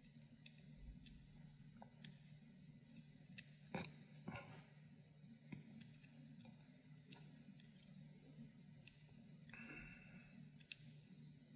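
Near silence with faint scattered clicks and small taps from handling the power-supply fan and its freshly greased bearing, over a low steady hum.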